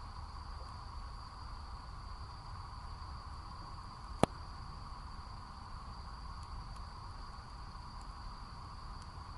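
Wood campfire burning in a fire stand, with one sharp pop about four seconds in and a few faint ticks later, over a steady chorus of insects.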